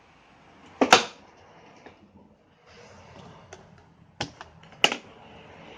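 Sharp plastic clicks and knocks from handling the Hoover carpet washer, with light rustling between them. The loudest clack comes about a second in, and two more come close together near the end.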